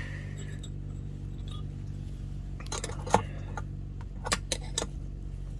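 Light metallic clicks and clinks from a hand tool working the forge's burner mounting bolts, in two short clusters: a little under halfway in and again about three-quarters through. A steady low hum lies under them throughout.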